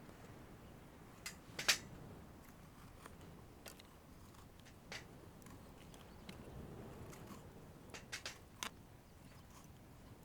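Scattered light clicks and taps over a faint steady background, the loudest about a second and a half in and a quick cluster of three or four near the end.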